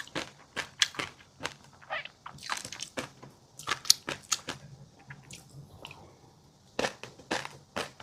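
Close-miked eating: irregular crunching and chewing of fish roe and a crunchy chili-garlic seafood mix, made of many short, sharp crackling clicks. There is a quieter pause a little past the middle.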